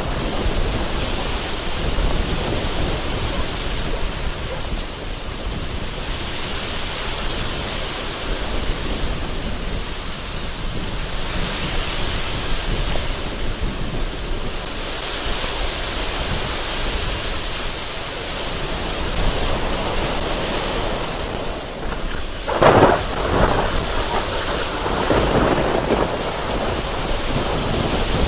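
Heavy rain pouring steadily in a thunderstorm, its hiss swelling and fading in gusts of strong wind. About two-thirds of the way through, a sharp crack of thunder is the loudest sound, followed by a few seconds of rumbling.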